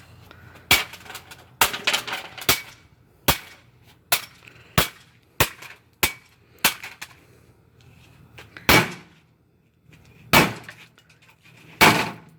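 Repeated blows smashing into a Whirlpool Duet washing machine's cabinet and cheap plastic parts: about a dozen sharp cracking impacts, roughly one every two-thirds of a second at first, then three louder, more widely spaced strikes near the end.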